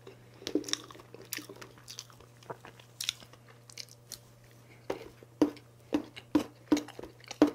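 Close-miked chewing of a mouthful of soft chocolate layer cake: wet mouth sounds and light clicks, then a steady run of chews about twice a second in the second half.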